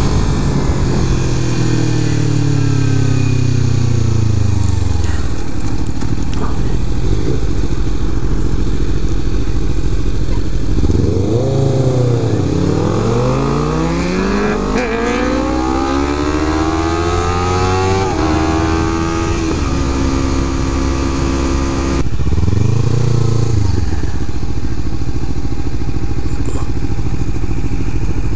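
Kawasaki Ninja 300 parallel-twin engine on the move, with wind rushing over the microphone. The revs fall away at first, then climb through several upshifts from about eleven seconds in and hold steady, with one more rise and fall near the end.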